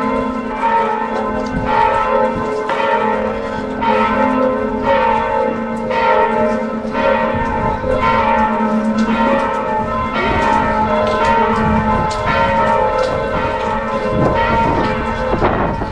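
Church bells ringing, a steady run of strokes about every half second to a second, each tone hanging on and overlapping the next.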